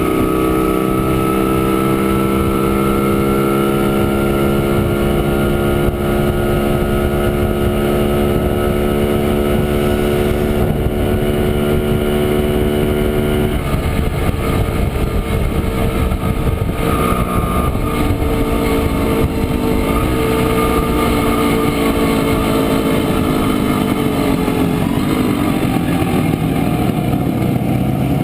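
Montesa Impala Comando 175's two-stroke single-cylinder engine running under way. Its note climbs slowly, changes abruptly about halfway through, then runs steadier and rises again near the end.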